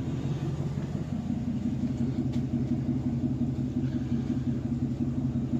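V8 exhaust of a 2021 Chevrolet Silverado Custom Trail Boss with the mufflers deleted: the engine is idling with a steady, even low rumble. The exhaust runs through a flex pipe spliced in after the flapper valve.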